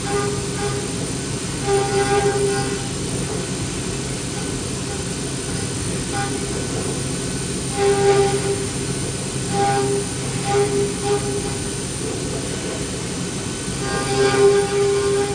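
CNC milling machine cutting at high spindle speed: a steady machine noise with a pitched cutting tone that comes and goes every second or two as the cutter engages the material.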